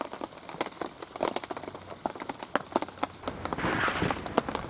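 Rain falling, with heavy drops striking a surface irregularly, one by one, and a denser hiss of rain swelling about three and a half seconds in.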